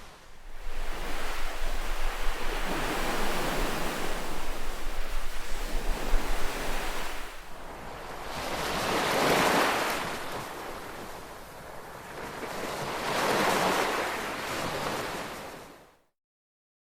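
Ocean surf: a steady wash of breaking waves, then two waves that swell up and fall away a few seconds apart. The sound cuts off abruptly near the end.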